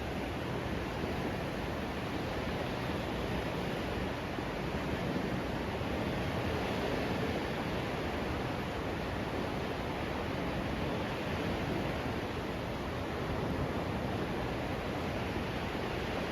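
Steady rushing of sea surf on the beach, an even wash of noise that never lets up.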